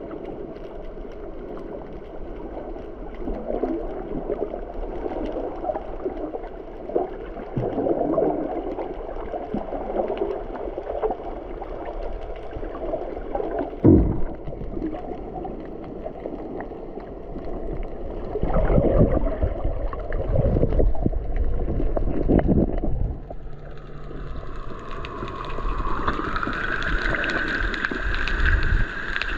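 Water gurgling and splashing against a boat's hull under way, with occasional thumps. Near the end a steady whine joins in and rises slightly in pitch.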